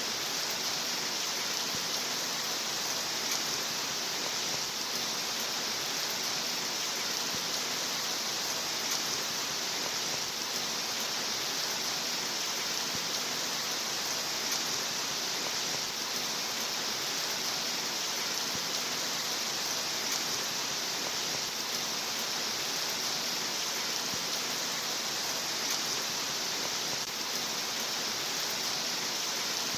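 Steady rain, an even hiss of falling water with no breaks or changes.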